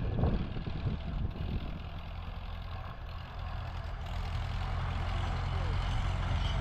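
Tractor engine running steadily at low speed, growing a little louder over the last few seconds.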